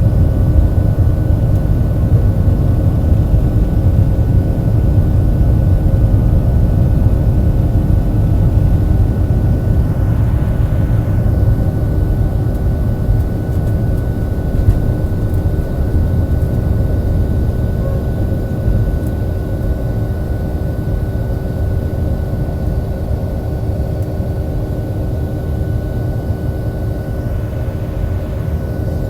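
Boeing 737-700's CFM56-7B jet engines running at high thrust, heard inside the cabin as a loud, steady low roar with a few steady hums from the fans above it. The roar eases slowly over the stretch.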